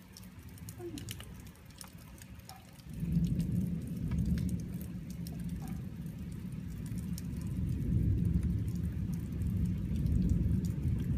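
Light rain easing off, with scattered drips ticking. About three seconds in, a low steady rumble comes in and stays loud.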